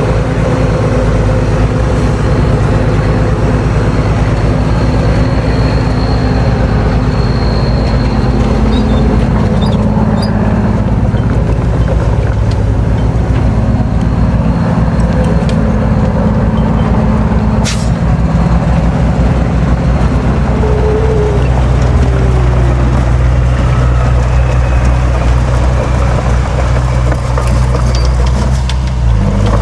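Heavy diesel engines of earthmoving machinery running steadily at a land-fill site, with one sharp click about eighteen seconds in.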